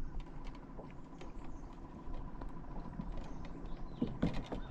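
Scattered light clicks and knocks, with a few sharper knocks about four seconds in, from handling a just-landed crappie and fishing tackle aboard a kayak.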